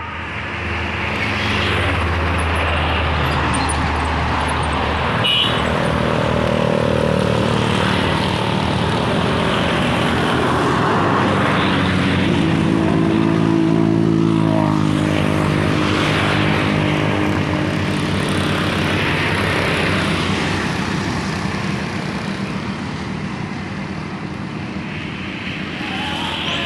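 Heavy diesel trucks and other traffic going past on a highway, their engines droning with pitch that rises and falls as they pass. A sharp click about five seconds in.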